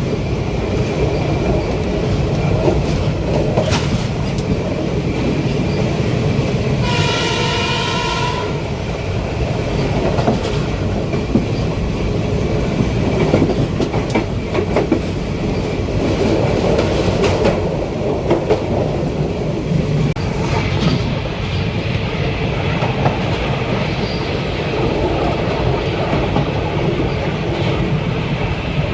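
Train running along the track with steady rumble and clickety-clack of wheels over rail joints. One horn blast of about a second and a half sounds around seven seconds in.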